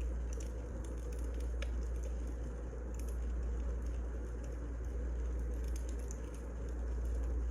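Wood fire burning: a steady low rush of flames with a few sharp crackles and pops.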